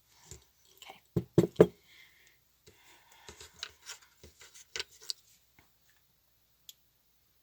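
Small craft pieces being handled and set down on a table: three sharp knocks close together about a second in, then scattered lighter clicks and rubbing that die away well before the end.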